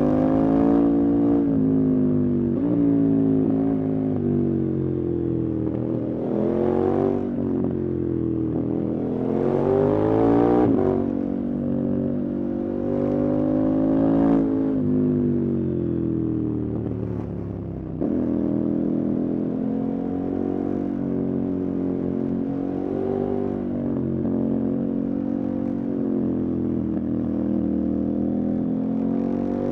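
Motorcycle engine on the move, its pitch climbing under acceleration and dropping at gear changes several times in the first half, then holding steadier at a cruise.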